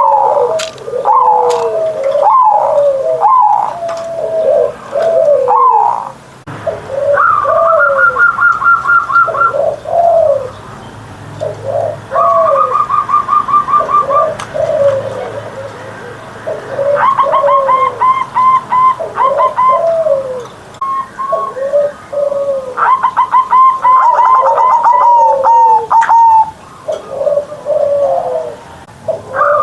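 Zebra dove (perkutut) cooing over and over in short rolling phrases, joined at several points by stretches of rapid, evenly repeated trilled notes pitched a little higher.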